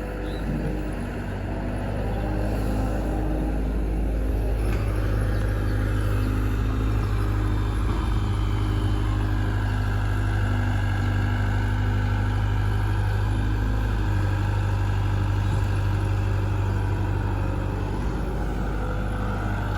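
Heavy diesel engine running steadily, a continuous low drone.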